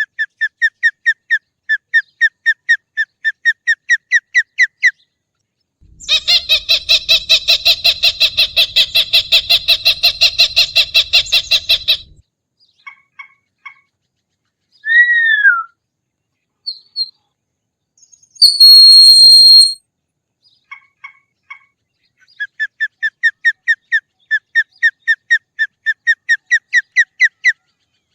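Hawk calls: runs of sharp repeated notes, about three to four a second, with a denser, harsher run in the middle. Between the runs come a single down-slurred scream and a brief high whistle.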